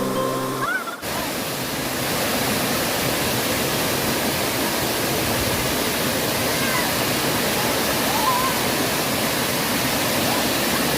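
Waterfall with a steady rush of falling water. Background music cuts off about a second in.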